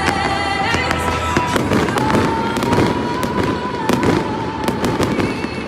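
Fireworks going off in a dense, rapid string of sharp cracks and bangs, with steady held tones running underneath.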